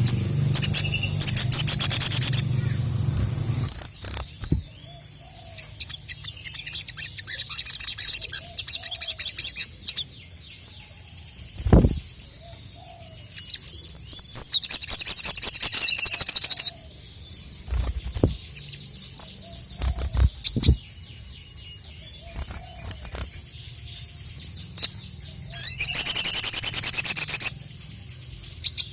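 Little spiderhunter (sogon) singing in loud, rapid, very high-pitched chattering bursts: three long bursts with softer repeated notes between them. A few short low thumps are heard in the gaps.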